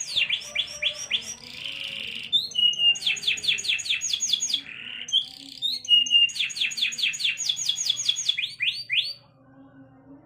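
Domestic canary singing, a bird coming into breeding condition: fast trills of repeated falling notes, broken by buzzy rolls and short steady whistles. The song stops about nine seconds in.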